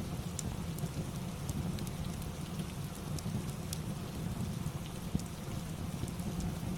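Steady rain with a crackling fireplace: a constant hiss and low rumble, with sharp pops from the fire scattered about once a second.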